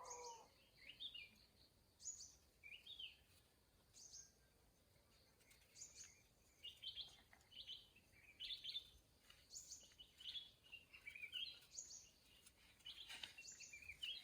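Birds chirping faintly in short, high, repeated chirps, coming more often in the second half.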